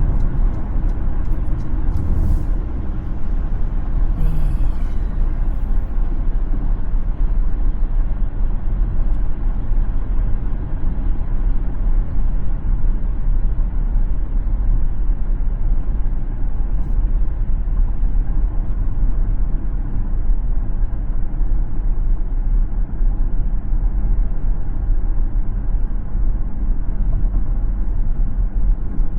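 Car driving, with a steady low rumble of road, tyre and engine noise; a few brief higher sounds come in the first five seconds.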